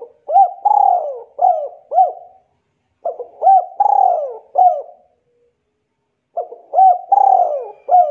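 A dove or pigeon cooing: three phrases of about five low notes each, the middle note longest, repeated about every three seconds.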